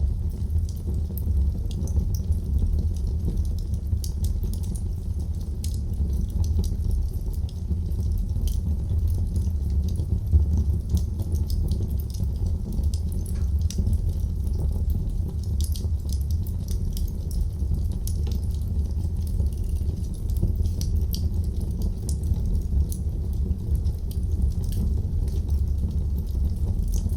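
Wood fire burning in a fireplace: a steady low rumble of the flames with many small, irregular crackles and pops from the burning wood.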